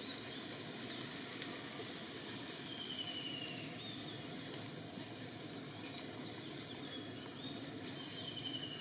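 Steady background hiss with a few faint, short high-pitched chirps now and then.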